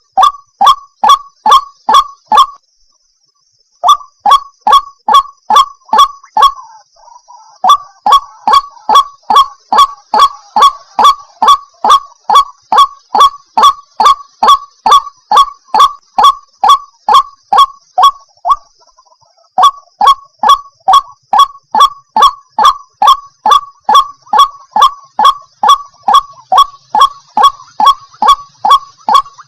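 White-breasted waterhen (ruak-ruak) calling: loud short notes repeated a little over two a second in long runs, with a brief pause about three seconds in and another past the middle.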